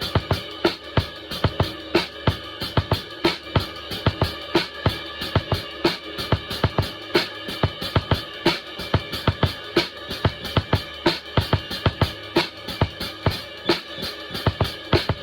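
Drum kit played in a steady, driving groove of bass drum, snare and hi-hat strokes, several a second, with a continuous ringing wash above them.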